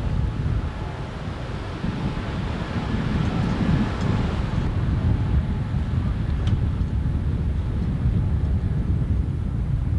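Outboard motor running steadily on an inflatable boat under way, with a faint whine, mixed with heavy wind buffeting on the microphone.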